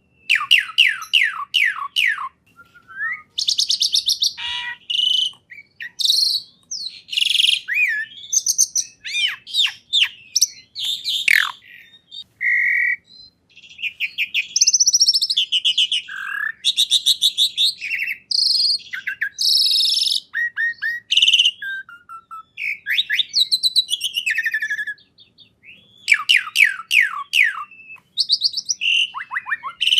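A songbird singing a long, varied song: rapid runs of falling notes, whistled sweeps and buzzy trills in quick succession, with only short pauses.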